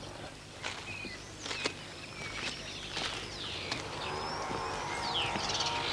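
Small birds chirping, with quick high calls that sweep downward in pitch. A faint steady tone comes in about halfway through.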